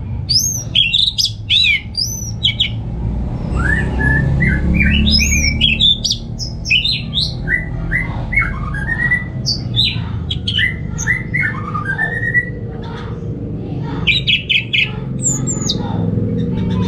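Orange-headed thrush singing a fast, varied song of whistled phrases, with quick rising and falling notes strung together without a break. A steady low rumble runs underneath.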